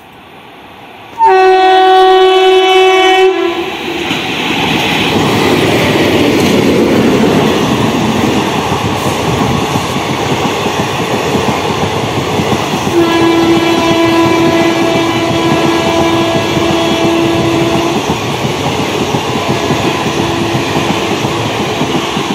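WAP4 electric locomotive's horn, one long loud steady blast about a second in, as the express comes through. The rushing and rail clatter of the passenger coaches passing at speed follow it. Another long horn sounds about halfway through, over the running noise, and a weaker one near the end.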